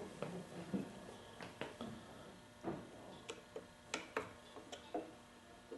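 About a dozen light, irregular metal clicks and taps as a flathead screwdriver probes at the retaining clip of the piston pin on a small two-stroke engine.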